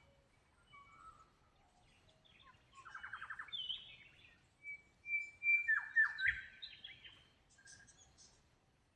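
Wild birds singing: a rapid trill about three seconds in, then clear whistles and a burst of warbling, falling phrases, loudest around six seconds in.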